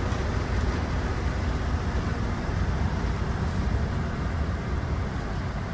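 Car on a skid-training rig driving steadily, heard from inside the cabin: an even low rumble of engine and tyres.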